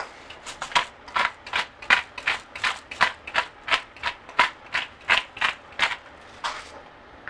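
Hand-twisted pepper mill grinding peppercorns: a short grinding crunch with each twist, about three a second, stopping about six seconds in after one last twist.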